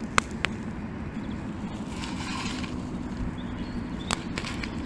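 Paper and kindling being handled while a small fire is built: a few sharp clicks and snaps, one short rustle about two seconds in, over a steady low rumble.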